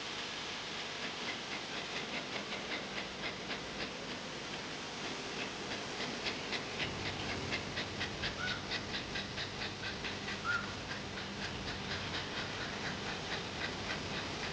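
A bird calling rapidly and repeatedly with short high chirps, about three a second, over a steady hiss, with two separate short rising chirps in the second half.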